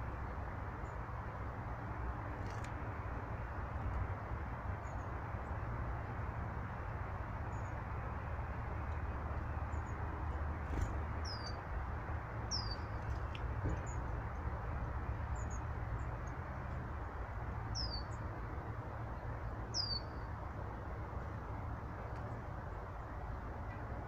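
Small birds calling at a garden-style bird table: a handful of short, high chirps that slide downward, a few seconds apart in the middle stretch, over a steady low rushing background noise.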